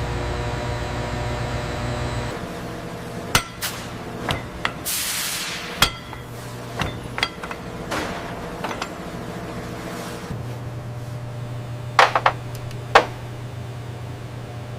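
Workshop metalwork: a series of sharp clanks and knocks, some ringing briefly, with a loud cluster of strikes near the end, over a steady low machine hum. A short hiss comes about five seconds in.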